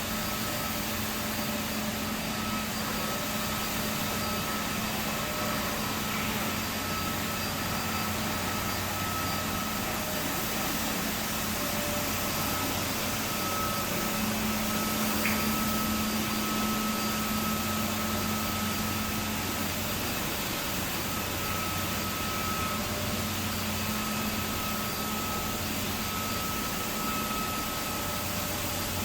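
ICE I-18B compact wet floor scrubber running steadily, its motors giving an even hum with a whirring noise of brush and suction.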